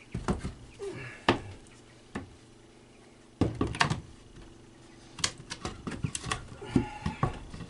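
Irregular knocks, taps and scuffling as young chickens are chased and tossed out of a small pen, with a few short chirps from the birds.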